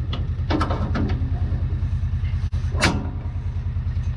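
John Deere 4400 combine engine running steadily with an even low pulse, with a few short clicks and knocks from the machine's parts being handled.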